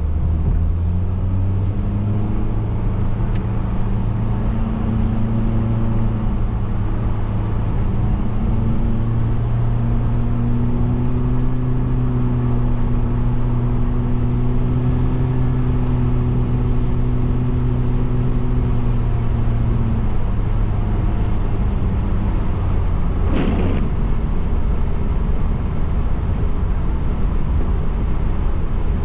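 Car driving, heard from inside: steady road and engine noise, with a low humming tone that holds for most of the time and fades out about two-thirds through. A short whoosh comes near the end.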